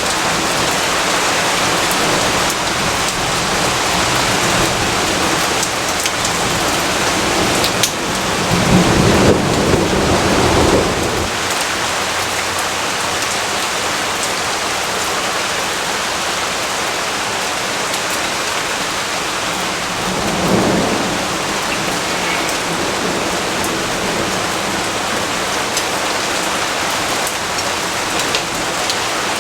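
Steady rain falling. A rumble of thunder swells about eight seconds in and lasts some three seconds, and a shorter, fainter rumble comes about twenty seconds in.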